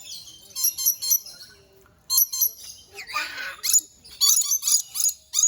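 Parrots calling: rapid, high-pitched chirps repeating several times a second, with one harsh screech about three seconds in.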